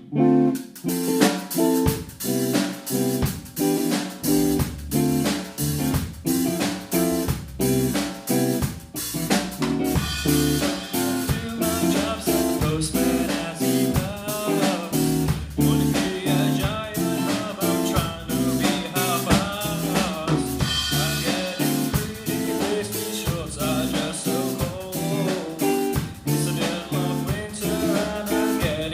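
A rock band playing a song: a drum kit keeps a steady beat of about two hits a second under a bass line and guitar chords, and a wavering melody line joins from about ten seconds in.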